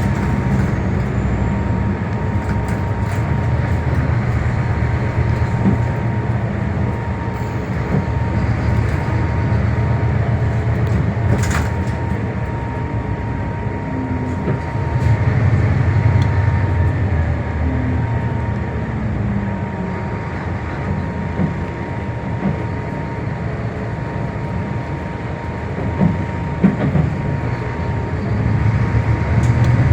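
Scania K320 city bus running, with its engine and road noise heard from inside the cabin. The engine note swells about halfway through and again near the end as the bus pulls harder, over a faint steady whine, with a single sharp click about 11 seconds in.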